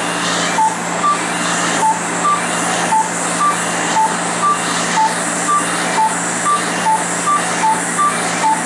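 Fraxel non-ablative fractional laser handpiece beeping as it fires across the skin: short beeps alternating between a higher and a lower tone, about two a second. Under them, a steady rush of air from the cold air skin-cooling hose and a low steady hum.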